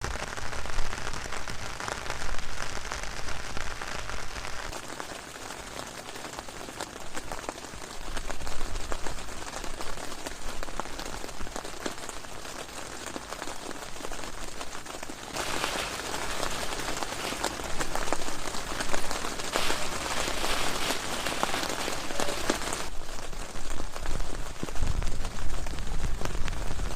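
Heavy rain falling: a dense, steady hiss of many drops, whose character changes abruptly several times, brightening noticeably for a stretch in the middle.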